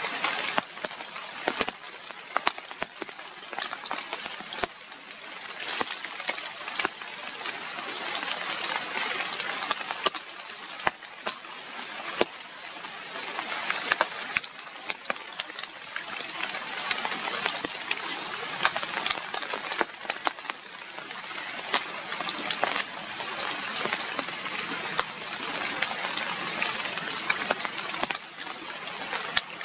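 Rain falling on the tree's leaves and branches: a steady hiss with many sharp drop hits scattered through it, swelling and easing at times.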